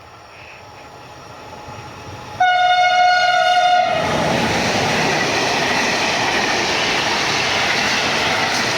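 A train approaching and growing louder sounds one steady horn note lasting about a second and a half. It then runs past close by with a loud, even rush of wheel and rail noise.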